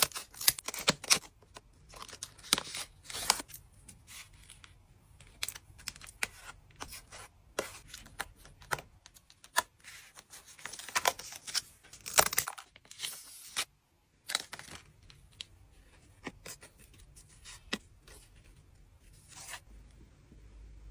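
Trading-card foil packs being torn open and crinkled by hand, with cards rustling and clicking against each other: an irregular run of sharp crackles and tearing sounds, with a short pause a little past halfway.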